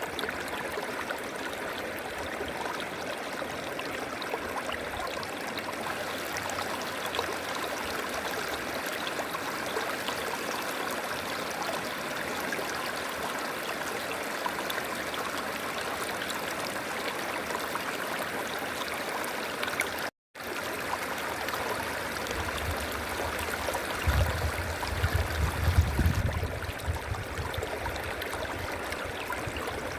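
River water flowing steadily over stones, an even rushing with some gurgling. It cuts out for a split second about two-thirds of the way through, and a low rumble rises under the water for a few seconds after that.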